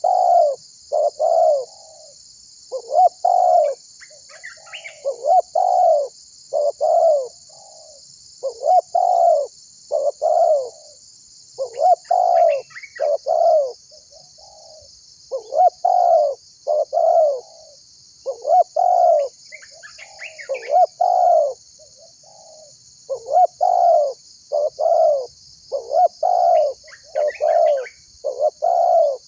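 Spotted dove (tekukur) cooing over and over in short phrases of several notes each, with only brief pauses between them. Behind it runs a steady high-pitched hiss, with a few faint chirps from smaller birds.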